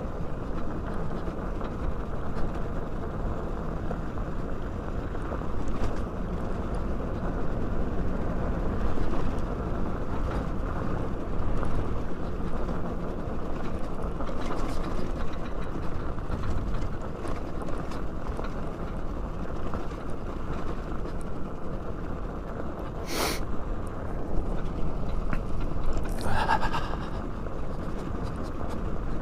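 Steady wind rumble on the microphone, with no engine running. There is a sharp click about three-quarters of the way in, and a brief higher squeak a few seconds later.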